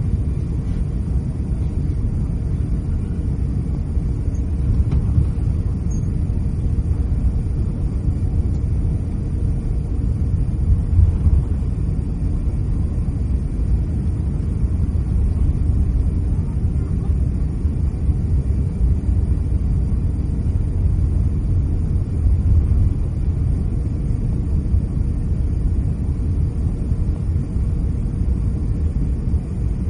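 Steady low rumble inside the cabin of an Airbus A350-900 taxiing after landing: engine and airframe noise with the rolling of the wheels, no distinct tones or knocks.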